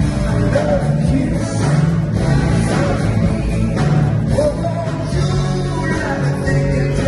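Live band music with a singing voice and guitar, playing on without a break.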